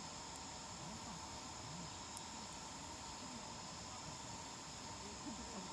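Faint, steady chorus of crickets chirping, with a few soft crackles from a wood campfire.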